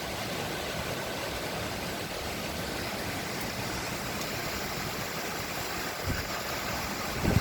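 Heavy rain pouring steadily, an even hiss, with a couple of brief low thumps near the end.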